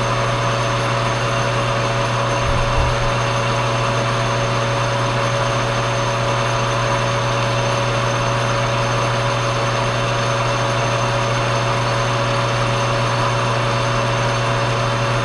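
Old Monarch engine lathe running steadily with an even hum while turning a light finishing pass on mild steel. A brief low bump comes about two and a half seconds in.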